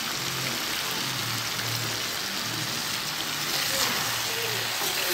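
Pumpkin pieces and chunks steadily sizzling as they fry in hot oil in a pan.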